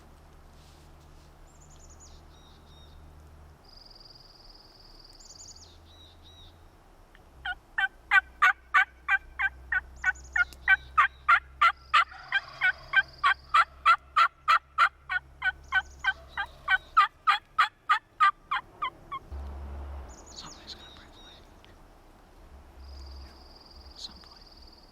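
Turkey yelping: a long, loud run of evenly spaced yelps, about three a second, lasting some eleven seconds. Thin, high songbird notes come before and after it.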